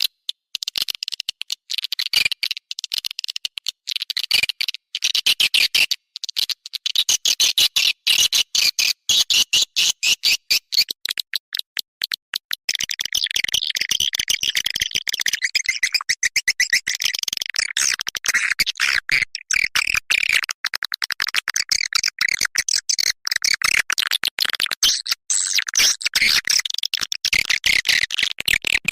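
Swiftlet calling sound: a dense, unbroken stream of rapid, high-pitched chirps and twitters of edible-nest swiftlets, the kind of lure recording played from a speaker to draw swiftlets into a nesting house. The chirping grows denser and fuller about halfway through.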